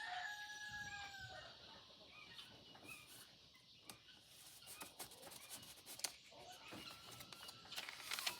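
A rooster crowing, one long drawn-out call that ends about a second and a half in. Then faint paper rustling and soft clicks as journal pages are turned, with a louder page flip near the end.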